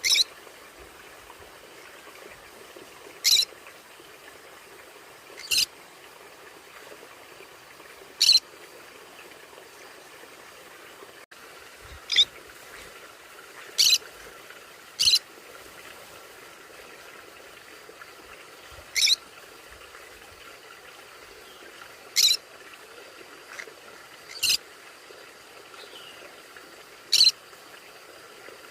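Conure calls: about a dozen short, loud, high-pitched squawks spaced a second or a few seconds apart, over a steady background hiss.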